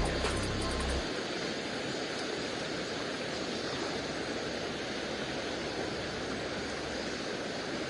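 Steady rushing of water in a mountain stream, an even hiss with no rhythm. The last of a music track's bass cuts off about a second in.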